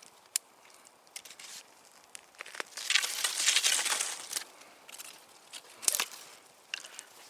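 Dry twigs and kindling being handled: scattered sharp snaps and crackles, with a louder rustling crunch about three seconds in that lasts over a second.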